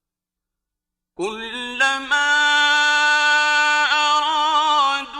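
A man's voice reciting the Quran in the melodic, drawn-out mujawwad style. After a silent pause it comes in about a second in on the word "kullamā", holding long notes with a wavering ornament near the middle.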